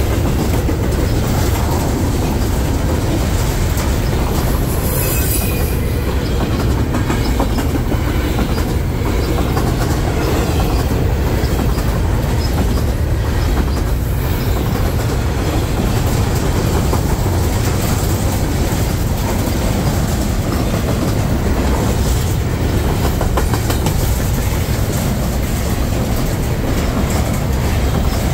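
Freight train cars rolling past steadily, with wheels clattering over rail joints and a brief wheel squeal about five seconds in.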